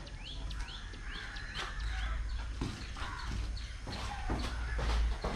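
A bird calling in a rapid run of short rising chirps for the first second or so, over a low rumble. From about two and a half seconds in, a series of sharp taps and knocks takes over.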